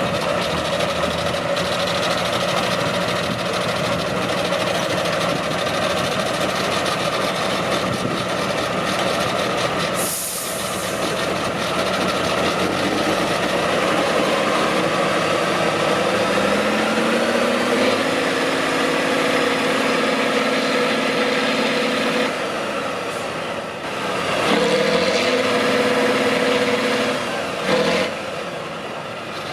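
Heavy off-road truck engine running under load, with a short hiss of air about ten seconds in. Past the middle the engine note rises and holds, drops briefly, then comes up again before cutting off near the end.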